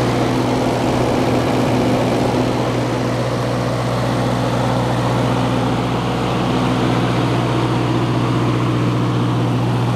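Kohler 10 kW generator's four-cylinder Ford engine running at steady speed with an even, unbroken hum, running smoothly.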